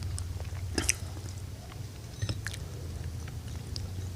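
Close-miked eating sounds: chewing with a few sharp clicks scattered through, over a steady low hum.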